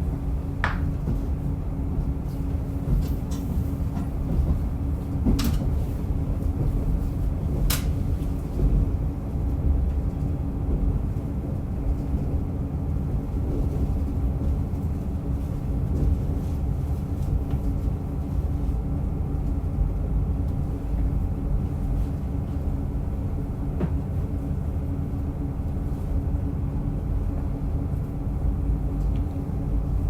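Diesel railcar running along the Rumoi Main Line: a steady low rumble of engine and wheels on rail with a constant hum, and a few sharp clicks and knocks in the first eight seconds.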